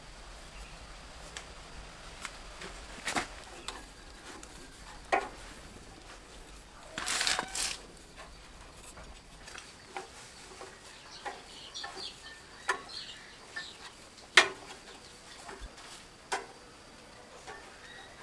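Hand tools and metal machine parts being handled during repair work: scattered light clicks and knocks, a short scraping rustle about seven seconds in, and one sharper knock near fourteen seconds.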